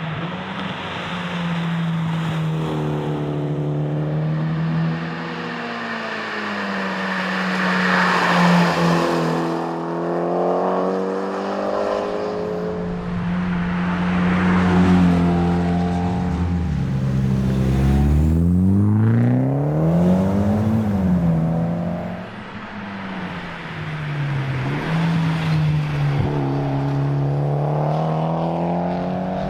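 Mitsubishi Lancer Evolution X's turbocharged 2.0-litre four-cylinder engine driven hard at speed, its revs rising and falling again and again through gear changes and lifts. Near the end a steep climb in revs is followed by a sharp drop.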